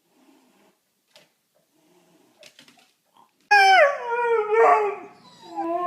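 A dog howling: after a few faint small sounds, a loud howl starts suddenly about three and a half seconds in, then runs on as a string of wavering, falling howls.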